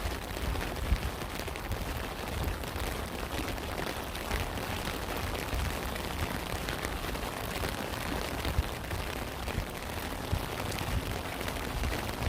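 Steady rain falling, an even hiss made up of many separate drop hits, with a low rumble underneath. A few louder single drops stand out, one about a second in and one a little past eight seconds.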